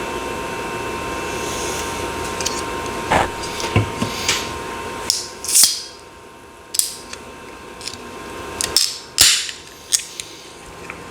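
Handling and sipping from an energy drink can: a dozen or so short clicks and knocks with a few brief hissing noises, over a steady background hum that drops away about halfway through.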